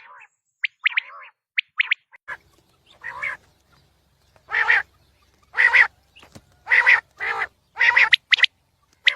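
Quail calling: a few short, sharp notes, then a run of harsh, raspy calls about half a second long, roughly one a second.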